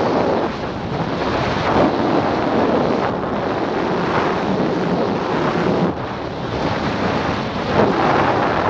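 Loud wind rushing over a skydiver's camera microphone during a parachute jump, rising and falling in gusts.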